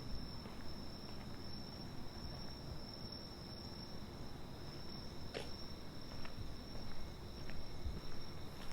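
Night insects singing in a steady, unbroken high-pitched trill, with one sharp click about five seconds in.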